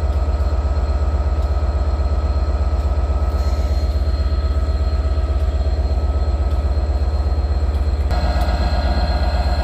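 A train running at the station: a heavy, steady engine rumble with several steady whines over it. About eight seconds in, the sound steps up suddenly and grows louder in its middle and upper tones.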